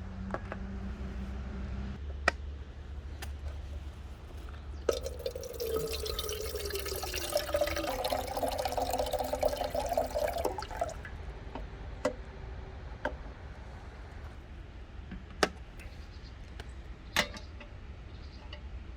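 Water pouring into a container for about five seconds in the middle, with a few light clicks and knocks before and after.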